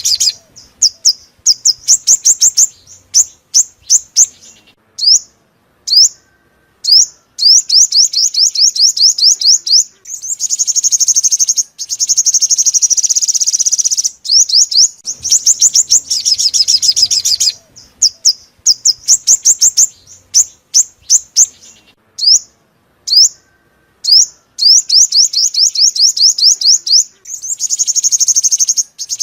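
Sunbird song: rapid, high-pitched trills of quickly repeated chirps in bursts separated by short pauses, with some bursts running together into a dense, buzzy chatter.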